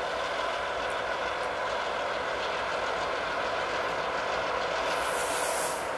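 Diesel freight locomotive approaching, its engine and the train running as a steady noise, with a short high hiss about five seconds in.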